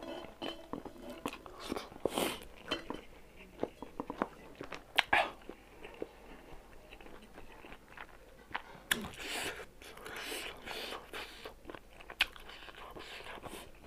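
Close-up chewing of a mouthful of rice and smoked pork, with irregular wet smacks and clicks.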